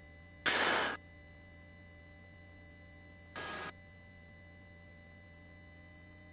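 Two short bursts of hiss over a faint steady hum: a louder one of about half a second near the start, then a shorter, quieter one about three seconds later.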